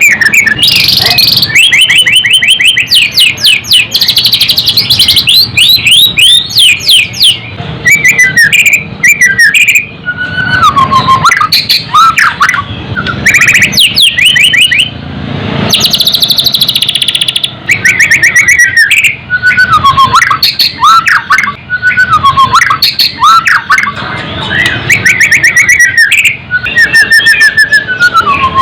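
White-rumped shama singing without pause: a loud, varied song of rapid trills, clear whistles and sliding notes, phrase after phrase with only short breaks.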